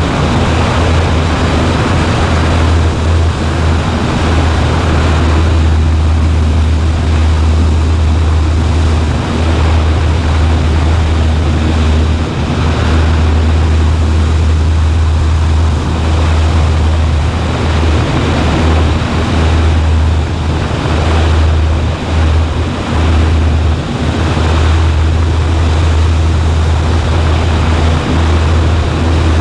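Cessna 140A's piston engine and propeller droning steadily in flight, a loud low drone under a constant rush of wind noise.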